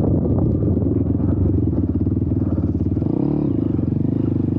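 YCF Bigy 190 Daytona pit bike's 190cc four-stroke single-cylinder engine running under throttle. The engine note changes briefly about three seconds in, then holds steady.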